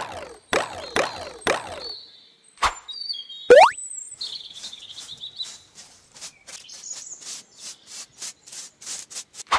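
Cartoon-style sound effects: four quick falling-pitch swooshes, a click and a fast rising glide. Then a run of short brush-scrubbing strokes, about three a second.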